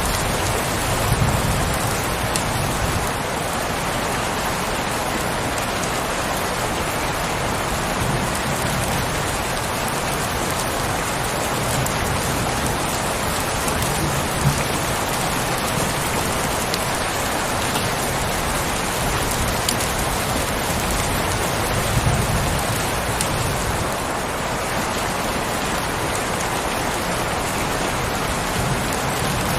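Heavy rain falling steadily as an even hiss, with scattered sharper drop hits. Brief low rumbles come about a second in and twice more later.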